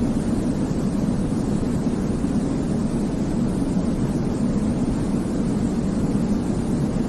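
Steady white-noise sleep sound: an even, deep rush weighted toward the low end, with no pitch, rhythm or change.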